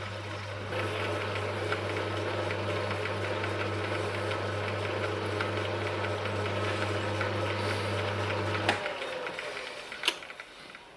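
Myford S7 lathe running with the tool cutting the phosphor bronze bush, a steady motor hum under a scratchy cutting sound. The lathe stops abruptly about nine seconds in, followed by a sharp click.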